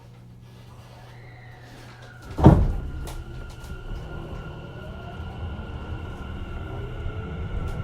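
Inside a Tobu 50050 series electric train: the sliding doors shut with a loud thump about two and a half seconds in. The train then pulls away, its traction inverter whine rising slowly in pitch over a low rumble from the wheels.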